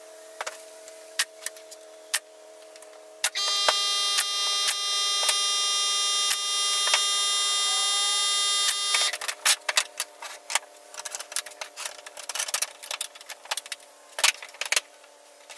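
Brad nailer shots pinning black walnut box corners: scattered sharp shots and clicks over a steady low hum. From about three seconds in, a loud, steady buzzing tone runs for about six seconds, then stops suddenly.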